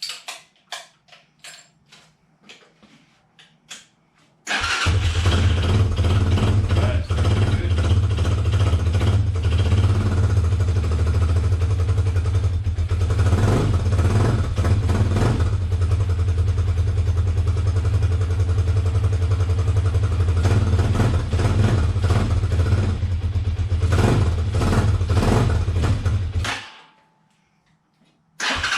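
A few clicks and knocks, then the RPS Hawk 250's single-cylinder four-stroke engine starts about four and a half seconds in and idles steadily, running on freshly changed oil. It shuts off a couple of seconds before the end and starts again right at the end.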